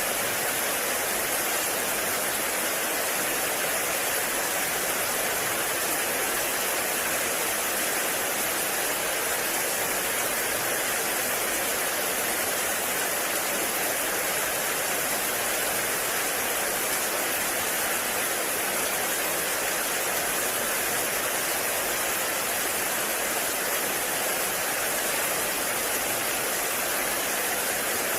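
Heavy rain falling in a forest, a steady even hiss with no breaks or single drops standing out.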